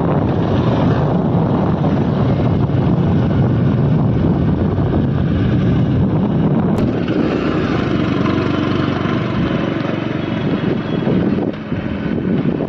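Wind rushing and buffeting over the microphone on a moving motorcycle, with the rumble of the ride underneath; it eases briefly near the end.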